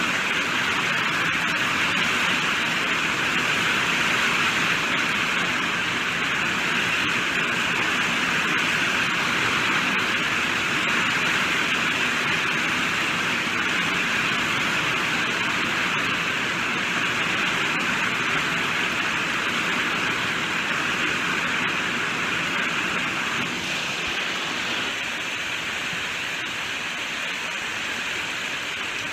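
Steady rainfall, an even hiss of many drops with no single hits standing out. About 24 seconds in it becomes slightly quieter and thinner.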